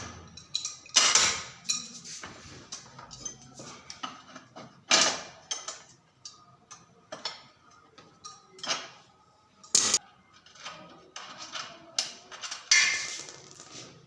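Irregular metallic clinks and knocks, a dozen or so separate strikes, some loud and ringing briefly, as tools and metal bicycle parts are handled during work on the back wheel.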